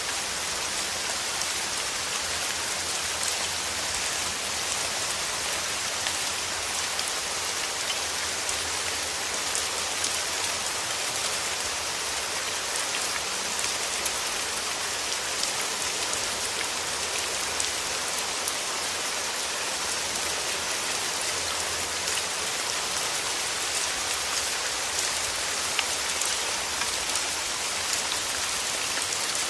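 Steady rain falling on rose petals: a dense, even hiss of drops with scattered sharper drop ticks, holding at a constant level throughout.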